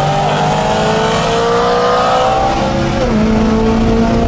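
BMW M3 E92's V8 engine under hard acceleration, heard from inside the cabin: its pitch climbs steadily, drops with an upshift about three seconds in, then starts climbing again.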